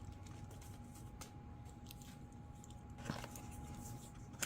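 Quiet handling of small plastic RC-plane parts: a few soft clicks and taps, about a second in, near three seconds and at the end, over a faint steady hum.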